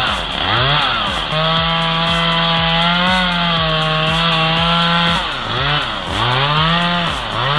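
Chainsaw revving up and down in short bursts, then held at full throttle for about four seconds while cutting into a tree, then revving in bursts again near the end.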